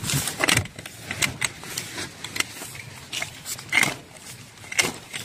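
Irregular rustling and scraping, about one or two short bursts a second: greenhouse plastic film and its clips being handled and pulled free from the frame.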